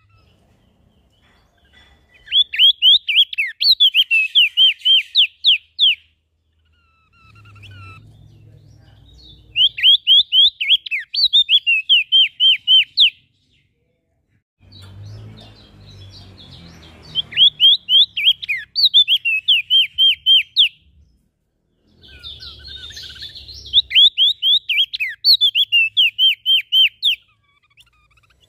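Small songbird singing four loud phrases of rapid, repeated high down-slurred chirps, each phrase lasting a few seconds with short pauses between. A low rumbling noise comes in some of the pauses.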